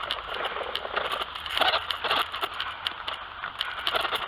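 BMX bike being ridden over a rough dirt track: an irregular run of tyre crunching and rattling.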